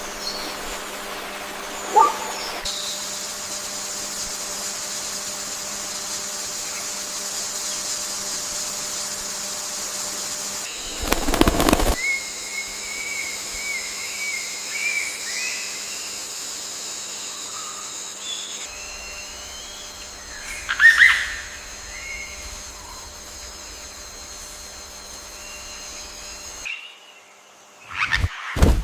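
Birds chirping and calling over a steady high-pitched insect drone, with a short chirping trill about twelve seconds in. A loud sudden rustle comes about eleven seconds in, and a loud call near twenty-one seconds in.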